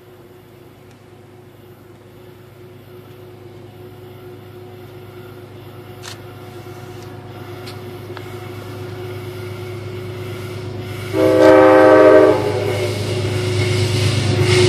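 A Metro-North train hauled by a GE Genesis P32AC-DM locomotive approaches, its rumble growing steadily louder. Near the end the locomotive sounds one horn blast of a little over a second.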